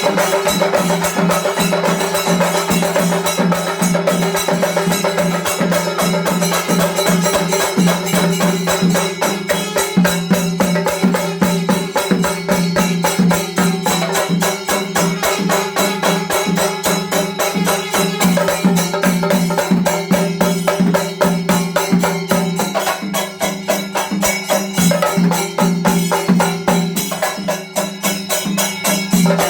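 Chenda melam: a Kerala chenda drum ensemble playing a fast, dense, continuous rhythm of stick strokes.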